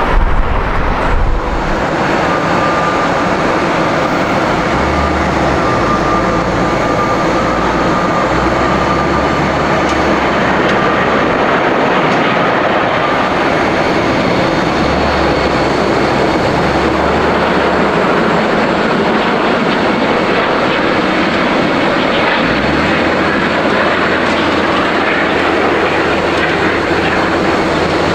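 Jet airliner engines with a steady, loud roar, and a thin high whine over it for the first half.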